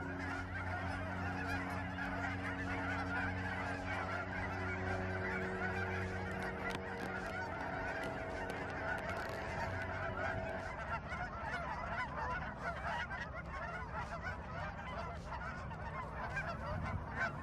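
A large flock of cackling and Canada geese honking nonstop, hundreds of high yelping calls overlapping into one continuous chorus. A steady low hum runs under it for about the first ten seconds, then fades out.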